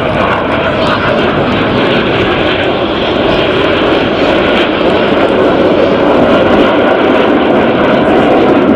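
Fixed-wing aircraft flying past, a loud steady engine roar that grows a little louder toward the end.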